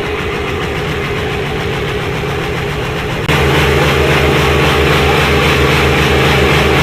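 Tractor diesel engine running steadily, then growing suddenly louder and heavier about halfway through and holding there.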